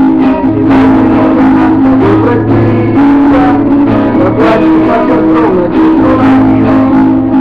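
Instrumental passage of a guitar song: strummed guitar over steady, held bass and keyboard-like tones, with a wavering melody line above.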